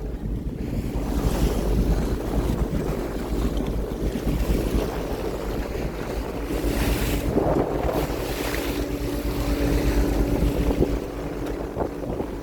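Wind buffeting the microphone aboard a tuna fishing boat at sea, over a steady low rumble and rushing water. A faint steady hum joins about six seconds in and fades out near the end.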